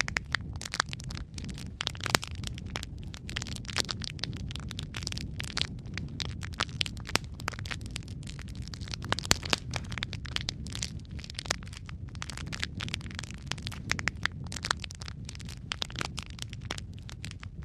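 Wood fire in a fireplace crackling: a steady low rumble of flame with frequent irregular sharp pops and snaps.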